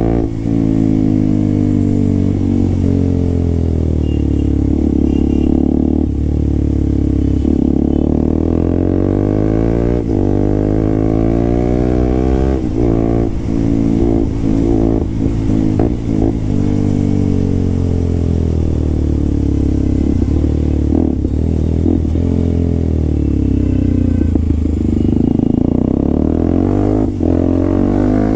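Motorcycle with an SC Project aftermarket exhaust running loud, its engine note rising and falling as it revs up and shifts again and again. There is a quick run of short breaks in the sound around the middle.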